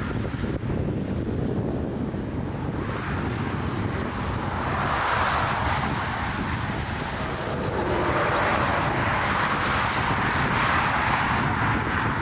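Strong gusty wind buffeting the microphone with a steady low rumble, and a rushing noise that swells about halfway through and again for the last few seconds.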